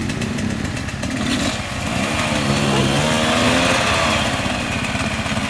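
Off-road motorcycle engines running, their pitch rising and falling as the throttle is worked.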